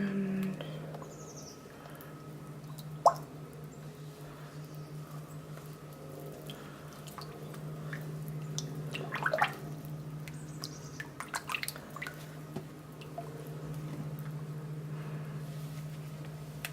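Bentonite clay being spooned into a pot of oils: scattered light clicks and taps of a utensil against the pot, with one sharper click about three seconds in and a run of taps later on, over a steady low hum.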